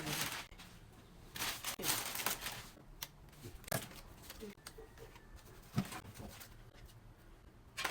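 Scattered rustling, clicks and light knocks of groceries and their packaging being handled, with a sharper knock about three seconds in and another near six seconds.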